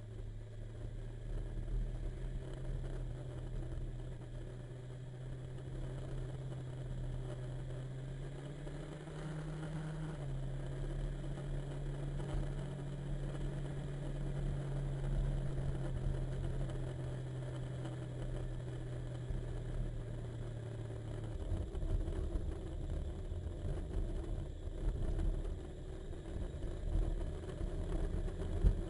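Motorcycle engine running steadily on the road, its note stepping up briefly about eight seconds in and then settling back. About two-thirds of the way through, the steady engine note gives way to a low rumbling noise.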